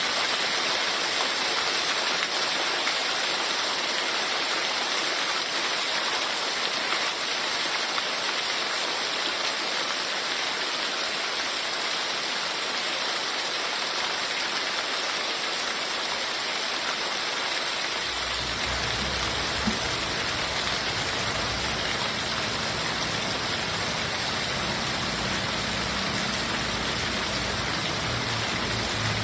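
Heavy rain falling steadily, an even hiss of rain. About two-thirds of the way through, a low rumble joins underneath it.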